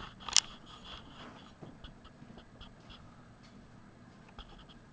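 A single sharp click about a third of a second in, then faint scattered ticks over a low steady hiss.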